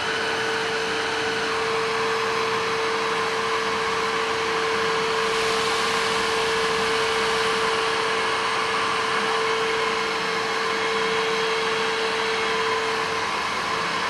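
Jimmy HW8 cordless wet-and-dry stick vacuum running steadily in vacuum mode, an even rushing noise with a steady mid-pitched motor whine.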